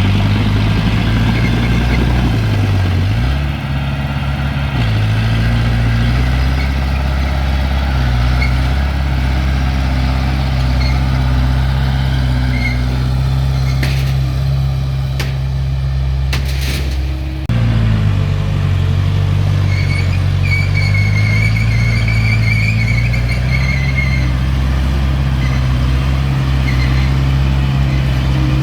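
Diesel engine of an earthmoving machine running steadily, its pitch dipping briefly under load a few times. A few sharp clicks sound near the middle, and a wavering high squeal follows a little later.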